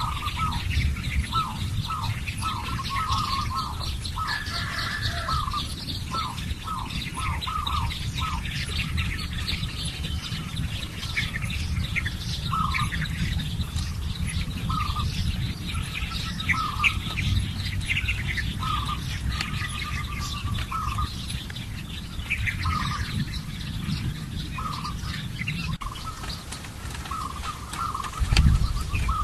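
Birds calling and chirping: many short repeated notes with higher twittering above them, over a steady low rumble, and a low thump near the end.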